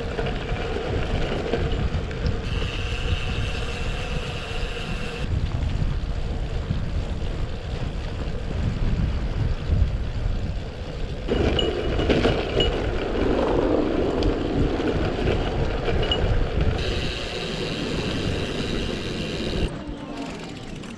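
Wind rushing over the microphone and road rumble from a bicycle being ridden, changing abruptly several times.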